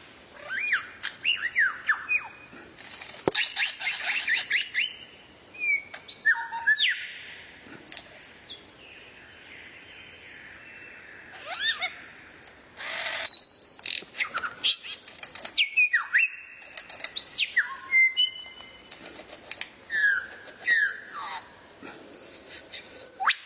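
A songbird singing a varied song of quick sweeping whistles and chirps, with a fast rattling run about three seconds in and a buzzy, hissing stretch in the middle.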